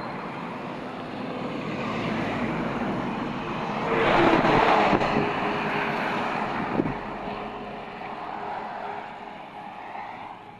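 Road traffic: a vehicle passes close by, building to its loudest about four to five seconds in and then fading away.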